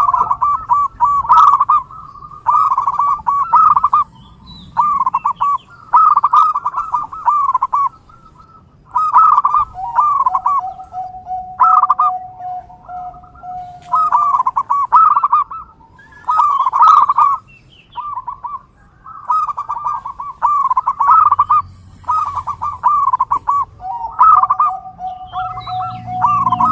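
Zebra doves (perkutut) cooing: short trilled coo phrases repeated about every one to two seconds. Twice a steady held tone runs beneath the cooing for several seconds.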